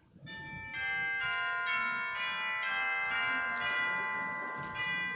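Bell-like chimes ringing a slow run of notes, each one struck in turn and left ringing so that the notes overlap.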